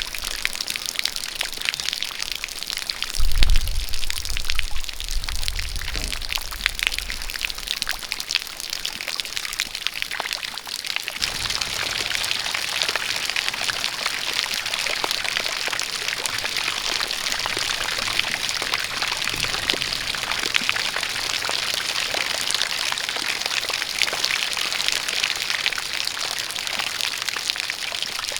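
Steady rain falling, with many close drop ticks, and a jet of water pouring. A low rumble swells for a few seconds early in the sound.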